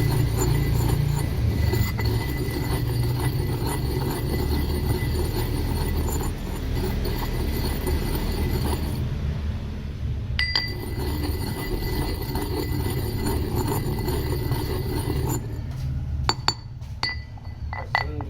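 A steady mechanical running noise with a single sharp clink about ten seconds in. In the last few seconds it gives way to a quick series of ringing glassy clinks.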